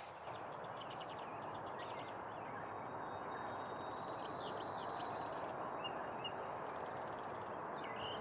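Small birds chirping, a scatter of short high calls, over a steady rushing background noise.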